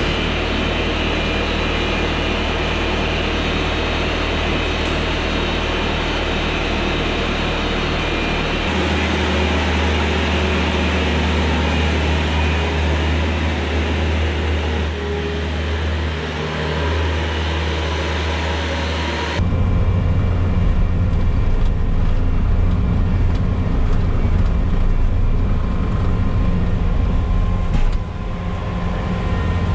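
Bobcat T595 compact track loader's diesel engine running steadily, its sound changing abruptly about nine seconds in and again near twenty seconds.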